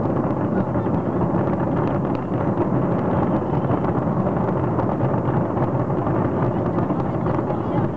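A large fireworks display going off without a break: a dense, steady rumble of many overlapping booms and crackles.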